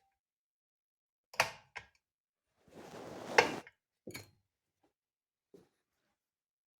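A few sharp knocks and clicks of small engine parts and hand tools being handled, with a short scraping rustle in the middle that ends in a sharp click.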